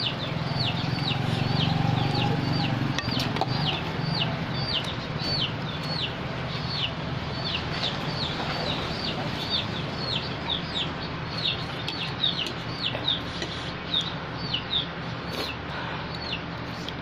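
Chicks peeping: short high calls that each fall in pitch, repeated about two to three times a second. A low rumble runs under them in the first few seconds.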